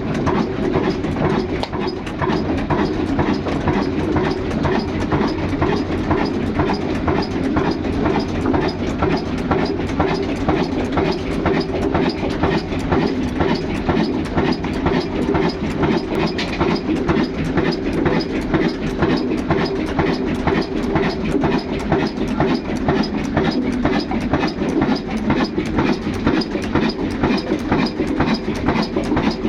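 Old 22 HP stationary diesel engine running steadily with an even, rhythmic beat.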